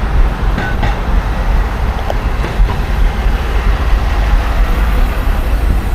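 Wind buffeting the microphone of an action camera carried on a moving bicycle: a loud, unsteady low rumble, with road and traffic noise beneath it.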